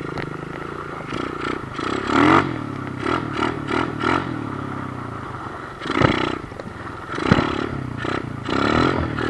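2008 Kawasaki KLX110 pit bike's small air-cooled single-cylinder four-stroke engine running under riding, its pitch rising and falling with repeated throttle blips. Two sharp clattering knocks come past the middle.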